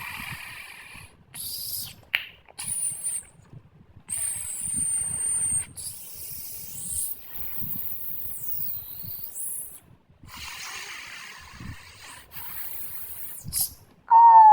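A series of hissing sound effects in separate bursts, mostly high-pitched, some with a thin whistling tone in them, and one sweep that falls and rises again about eight seconds in.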